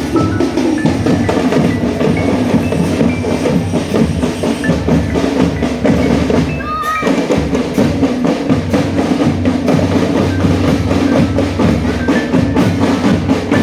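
Marching drum band playing: snare and bass drums beat a dense, steady rhythm, with a short break a little past halfway before the drumming picks up again.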